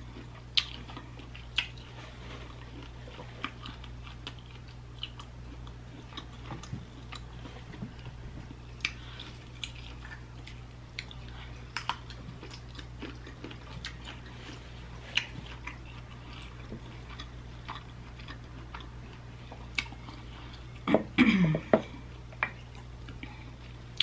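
Close-miked chewing, biting and wet mouth clicks of someone eating boiled shrimp and seafood, with finger-sucking, over a steady low hum. A short voiced sound with a falling pitch, the loudest moment, comes about three seconds before the end.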